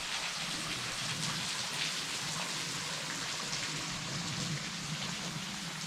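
Small waterfall at low flow, water falling and splashing steadily.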